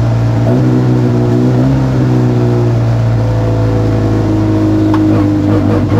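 Fiat 126p hillclimb race car's engine running hard at high revs, heard from inside the cabin, its pitch dipping and rising slightly a few times. A short click sounds about five seconds in.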